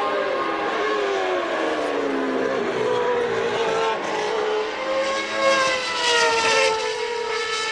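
Late-1980s naturally aspirated Formula One racing engines at high revs. Their pitch falls over the first couple of seconds as they slow and shift down, climbs again under acceleration, and drops once more near the end. The sound grows louder for a moment about five to six seconds in, as a car comes close.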